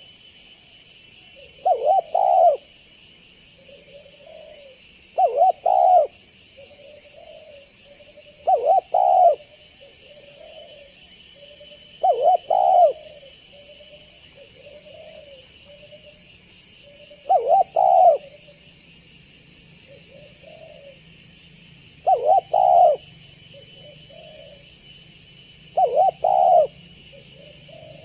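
Spotted dove (tekukur) cooing in repeated phrases, a loud burst of two or three quick coos about every four seconds with softer coos between, seven phrases in all, over a steady high insect drone.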